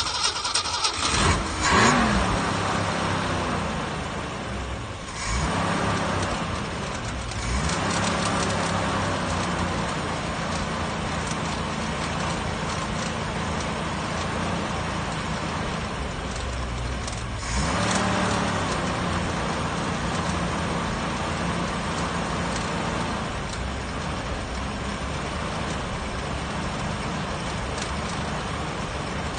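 1966 Ford Mustang engine, after 12 years without running, catches and fires unevenly for the first couple of seconds. It then keeps running, revved up briefly about 5, 7 and 18 seconds in, and settles to a steady idle.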